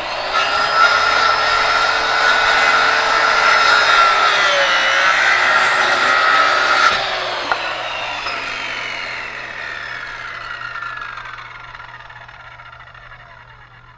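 Circular saw cutting through a wooden board, its motor giving a steady high whine under the cutting noise. About seven seconds in, the cut ends abruptly and the blade winds down, its whine falling slowly in pitch and fading.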